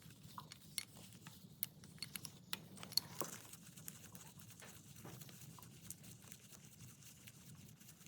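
Scattered light metallic clicks and clinks of hand tools and engine parts being handled, a few sharper ones in the first three seconds, over a faint steady hum.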